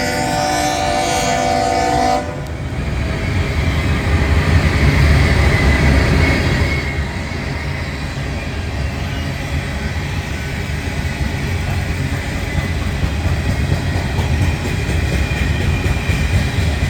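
Freight train's multi-chime air horn sounding a chord that cuts off about two seconds in, then the GE Dash 8 and Dash 9 diesel-electric locomotives passing with a low engine rumble, loudest around five seconds in. After that, steady wheel and rail noise of the freight cars rolling past.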